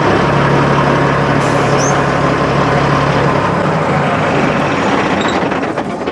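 Semi truck passing close by, with steady engine and road noise and a low hum, fading away near the end.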